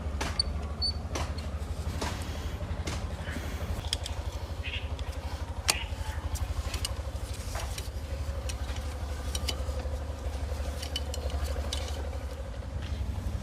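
A machine runs with a steady, fast-pulsing low drone, with scattered sharp metallic clicks and knocks over it, one louder knock near the middle.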